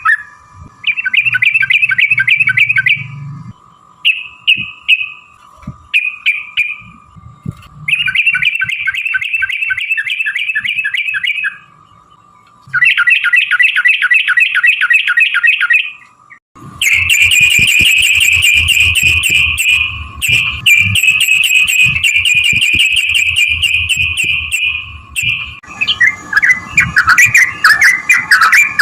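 Trucukan (yellow-vented bulbul) singing long, rapid rattling trilled phrases, each lasting several seconds with short breaks, turning into a more jumbled chatter near the end. A faint steady tone runs underneath.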